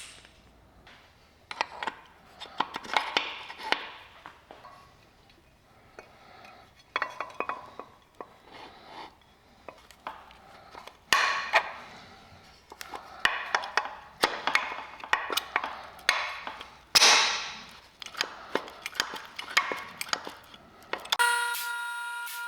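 Small metal parts clicking and clinking by hand, in scattered sharp clicks, as a clutch throwout bearing and its retaining spring are fitted onto a manual transmission. Near the end the clicks stop and a steady horn-like tone of several pitches starts.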